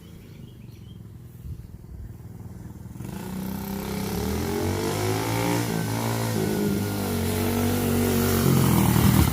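Small dirt bike engine running as the bike rides up, its pitch rising and then falling around the middle, getting louder toward the end.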